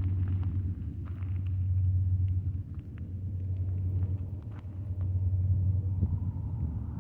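BNSF manifest freight train with diesel locomotives passing, a deep steady rumble that swells and eases several times, with light scattered clicks.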